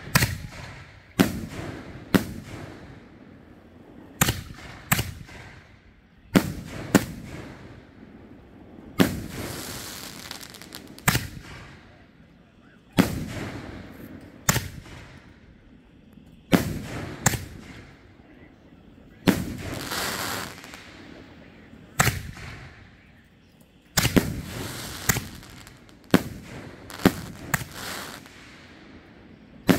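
Aerial firework canister shells going off in succession: sharp booms from mortar lifts and shell bursts, often in pairs, every second or two. A few bursts trail off for about a second.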